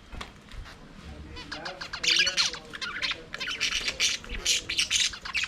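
A flock of budgerigars chattering and squawking, quieter at first and then a dense run of rapid, overlapping high chirps from about a second and a half in.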